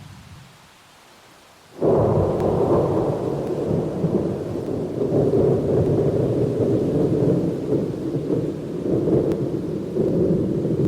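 Thunder: after a faint steady hiss, a sudden loud thunderclap breaks about two seconds in and rolls on as a long, swelling rumble.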